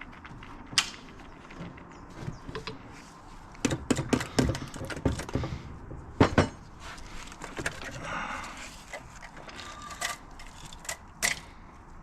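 Metal tools and engine parts clinking and knocking as a motorcycle engine is taken apart, with a cluster of sharp knocks a few seconds in and a short squeak near the middle.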